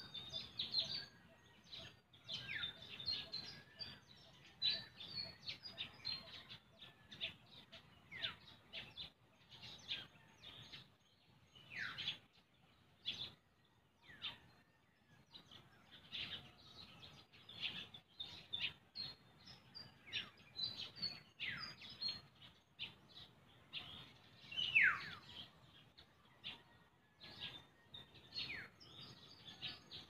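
Birds chirping and calling in the trees: a steady run of short, high chirps, with now and then a longer call that slides down in pitch, the loudest about 25 seconds in.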